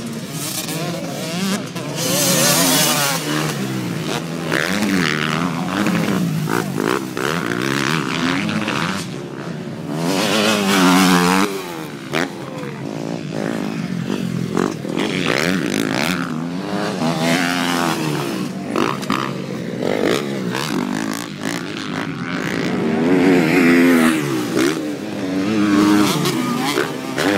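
Motocross bikes racing past, several engines revving up and down at once as riders work the throttle. The sound swells as bikes pass close, loudest a few seconds in, around ten seconds in and near the end.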